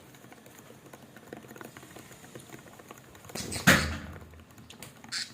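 Pet birds (budgerigars and a parrot) shuffling about: light scratching and tapping, with one loud sudden sound a little over three and a half seconds in and a short high sound near the end.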